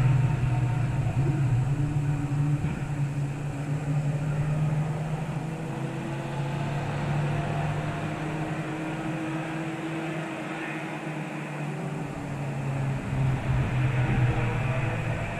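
Race car engines running past the track: one car's engine fades away over the first several seconds, and another grows louder and passes near the end.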